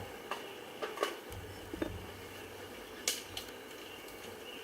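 Honeybees buzzing steadily around an open hive, with a handful of sharp clicks and knocks as a wooden hive frame is pried loose and lifted out; the loudest knock comes about three seconds in.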